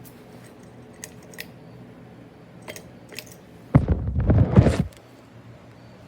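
A few faint sharp clicks, then a loud rustling, rubbing noise lasting about a second, over a faint steady hum.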